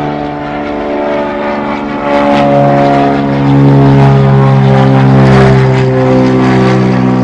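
Propeller aeroplane engine drone, a steady hum with a slightly shifting pitch that grows louder about two seconds in.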